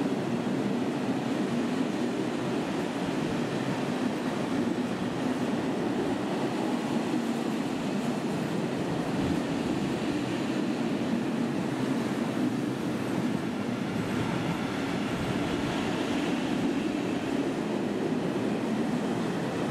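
Container freight train wagons passing at speed, a steady rumble and rush of wheels on the rails.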